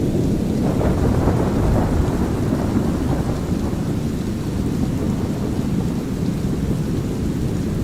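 Continuous low rumble of thunder over a steady bed of brown noise and light rain. The thunder swells about a second in, then settles back into an even rumbling wash.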